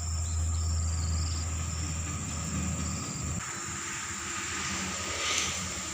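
A low rumble that cuts off about three and a half seconds in, over a steady high-pitched insect drone, with a brief hiss near the end.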